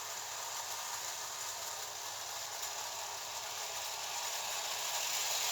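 O gauge clockwork train running along its track with its coaches, the wound spring motor and wheels making a steady mechanical whir that grows louder toward the end.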